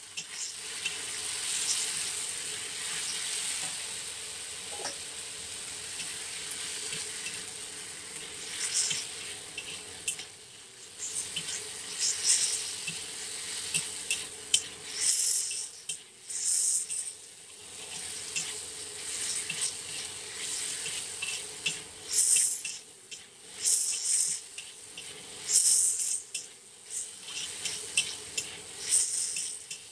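Diced chicken and onion sizzling in a hot wok, stirred and tossed with a slotted spatula that scrapes against the pan in short, irregular strokes.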